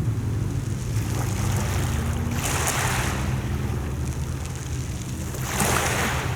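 Mediterranean sea waves washing onto the shore, the hiss of the surf swelling twice, about three seconds apart, over a steady low rumble.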